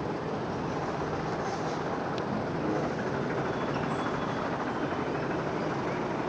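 Steady rushing background noise, with a few faint, short, high bird chirps about the middle.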